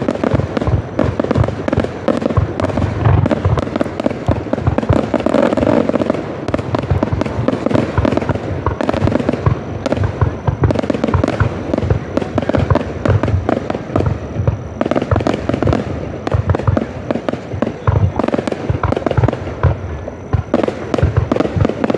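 Fireworks display in a dense, continuous barrage of overlapping bangs and crackles.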